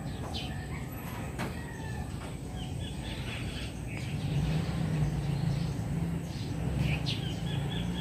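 Bird chirping in short, high calls a few times, over a low steady rumble that grows louder about halfway through.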